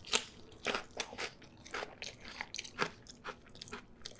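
Close-up crunching and chewing of hot Cheetos nachos smothered in cheese sauce and ground beef: an irregular run of many short, sharp crunches as the cheese puffs are bitten and chewed.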